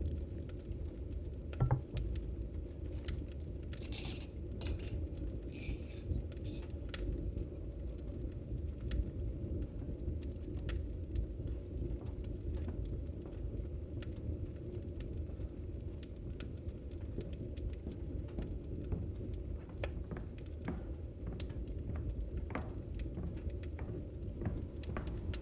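China cups and a spoon clinking as tea is prepared, mostly in the first few seconds. Under them runs a steady bed of rain and crackling fireplace ambience.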